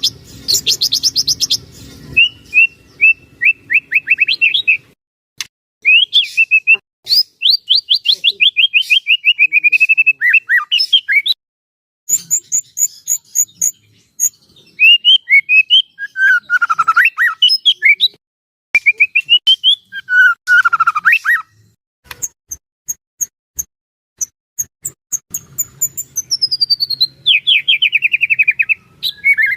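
White-rumped shama (murai batu) singing a long, varied song: loud phrases of rapid repeated whistled notes, trills and sweeping glides with short pauses between them. Near the end one run falls steeply in pitch.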